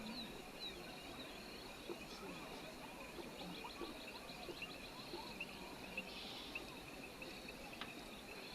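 Faint outdoor rural ambience. A steady high insect drone runs throughout, with bird chirps over it and a quick run of repeated chirping notes in the middle.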